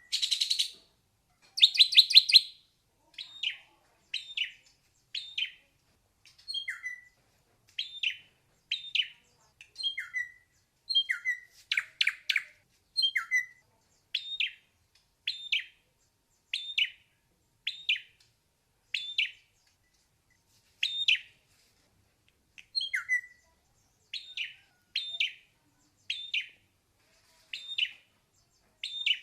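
Ashy drongo singing: a steady series of short, sharp high notes, roughly one a second, some slurring downward, with a few harsher, rasping notes near the start and about twelve seconds in.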